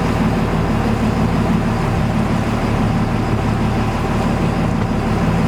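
Boat engine running steadily: a constant low drone with a hum of water and air over it.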